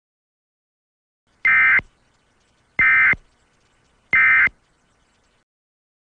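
Simulated Emergency Alert System end-of-message (EOM) signal: three short, identical bursts of SAME digital data tones, evenly spaced a little over a second apart, marking the end of the alert.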